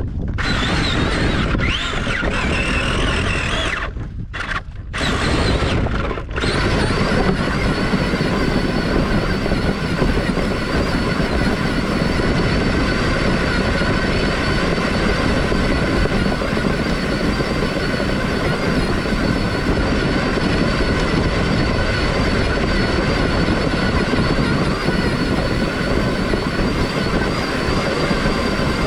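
Traxxas Summit electric RC truck with a Titan 775 motor running: a steady high whine over a loud rushing noise, with a few brief drops about four to six seconds in.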